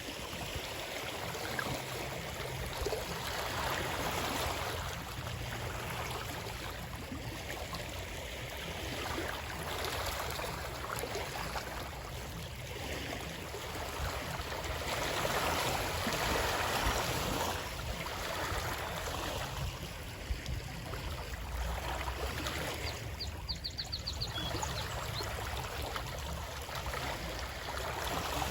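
Flowing water, a stream or rush of water, running steadily and swelling and easing every few seconds. A brief high trill sounds about three quarters of the way through.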